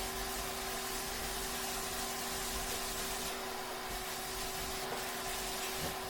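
A machine running steadily: a motor hum with a few steady tones under a hiss that swells a little in the highs now and then.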